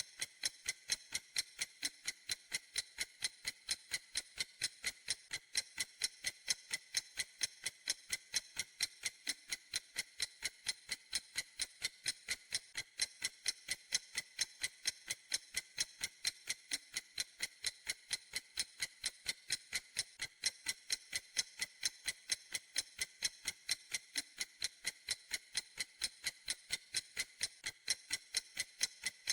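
Clock ticking steadily and evenly, about three sharp, bright ticks a second.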